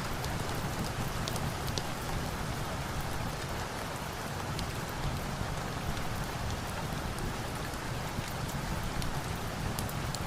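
Steady rain falling, an even hiss with scattered sharp crackles and pops from a wood fire mixed in.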